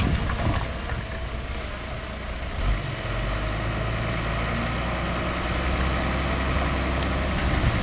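Heavy earthmoving machine's diesel engine running steadily at a low, even drone that settles about three seconds in.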